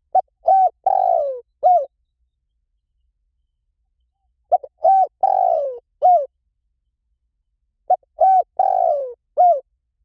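Spotted dove cooing: three calls about three and a half seconds apart. Each is a short phrase of four notes, and the third note is the longest, sliding down in pitch.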